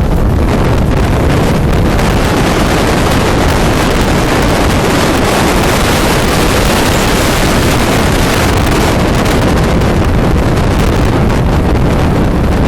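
Strong blizzard wind buffeting the microphone: a loud, steady rush of noise with heavy low rumble.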